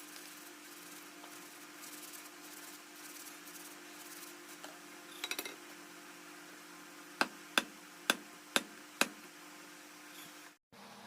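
Five light, sharp hammer taps about two a second, over a faint steady hum, with a brief scrape or clink shortly before them.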